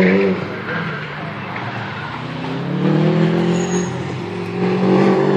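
A car's engine revving hard as it is driven around a tyre-lined autocross course, heard from across the track. The pitch climbs about two and a half seconds in and again near the end.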